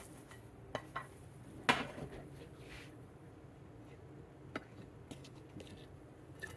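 Scattered clinks and knocks of kitchen cookware and utensils being handled, with one louder knock about two seconds in and a few lighter clicks later.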